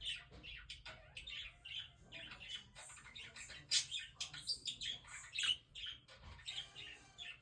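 Birds chirping and squawking: a rapid, continuous run of short, high calls.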